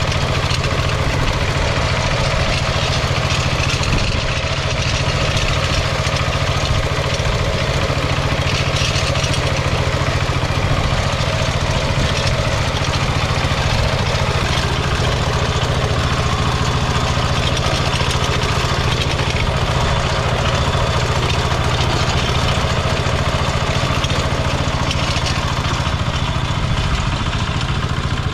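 Kentavr МБ 1010ДЕ walk-behind tractor's diesel engine running steadily and loud the whole time.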